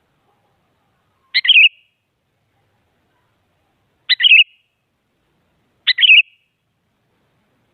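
Sooty-headed bulbul calling: three short, bubbly phrases, each a sharp note followed by a quick warble, spaced a couple of seconds apart.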